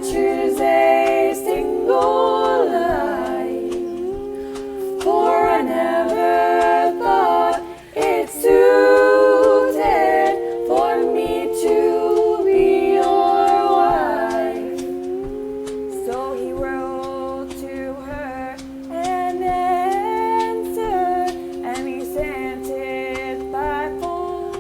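Several voices singing a cappella in harmony, some holding long steady notes beneath a moving melody line, with no instruments.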